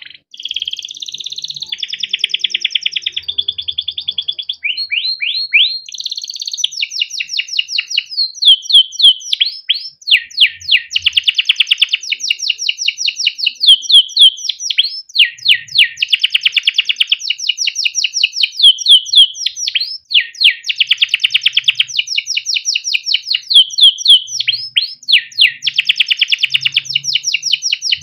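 Male canary singing a long continuous song of fast repeated chirps and rapid rolling trills, phrase after phrase with only brief breaks.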